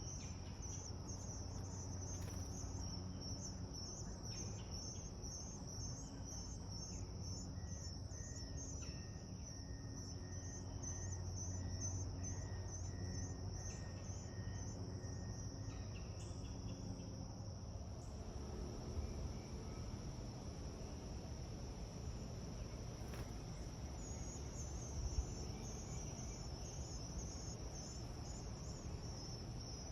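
Insects chirping steadily in a high, fast, continuous trill over a low background hum.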